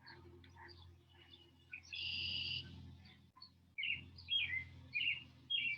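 Birds chirping and singing outdoors, with a run of short falling chirps about twice a second in the second half. A steady low hum runs underneath.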